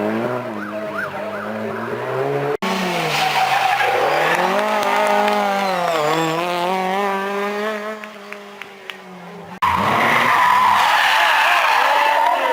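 Classic rally car engines revving hard, pitch falling and climbing again through gear changes, in three clips cut together abruptly. Tyres skid, most plainly in the last clip.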